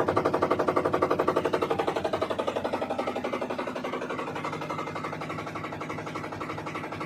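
IFB 11 kg top-load washing machine running with a fast, even pulsing noise, about a dozen beats a second, that slowly fades: the abnormal noise the machine is faulty with.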